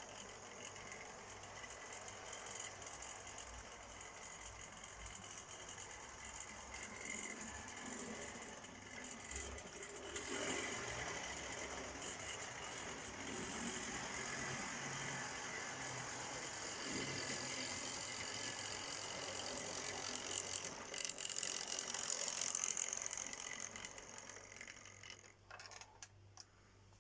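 Small electric motor and gears of an OO gauge model locomotive whirring as it runs along the track pulling coaches on DC power. It gets louder about ten seconds in and dies away a couple of seconds before the end.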